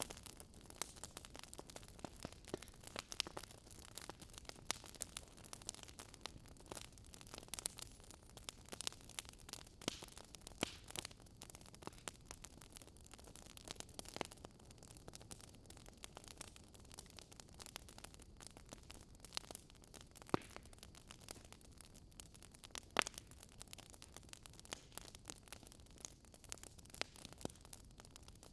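Wood fire in a fireplace crackling: a low steady hiss of flames with frequent small snaps and the odd louder pop, two of them standing out about 20 and 23 seconds in.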